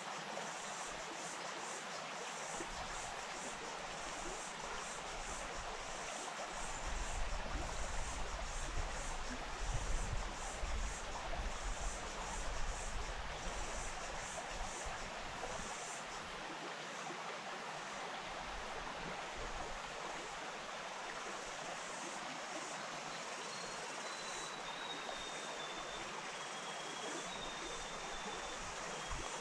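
Wainuitewhara stream flowing, a steady rush of water. From about six seconds in, a low rumble swells underneath for about ten seconds, and near the end a faint thin high tone wavers above the water.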